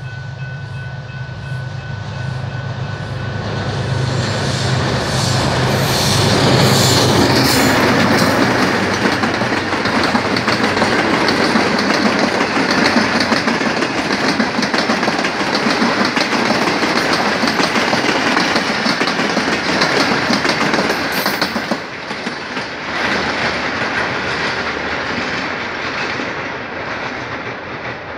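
Diesel-hauled passenger train passing close by. The locomotive's engine drone grows over the first few seconds, then comes the steady rumble and clickety-clack of the coaches' wheels over the track. It eases off at about 22 seconds as the last coaches go by, and fades away.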